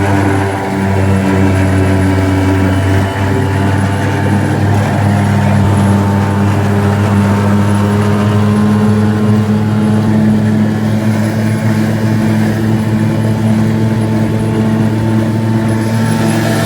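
5 hp outboard motor running hard at a steady pitch, driving a boat at speed with its bronze racing propeller raised high enough to surface-pierce.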